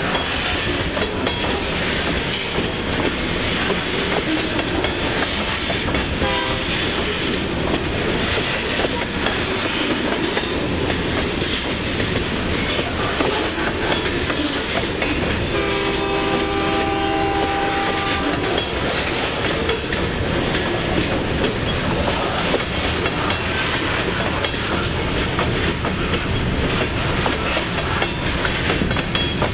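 Union Pacific freight train of covered hopper cars rolling past in a steady rumble, its wheels clattering over the rail joints. About halfway through, a train horn sounds a chord for about three seconds.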